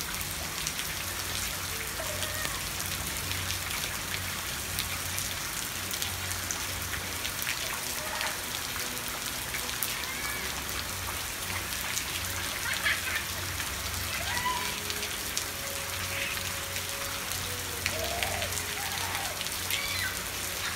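Heavy rain falling steadily on wet ground and puddles.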